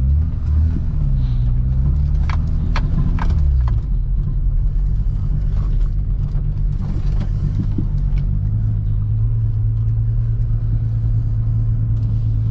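Mk2 Golf GTI's swapped 12-valve VR6 engine, fitted with cams and a 63 mm exhaust, running at low speed. Its revs rise and fall over the first few seconds, with a few sharp clicks, then hold a steady note.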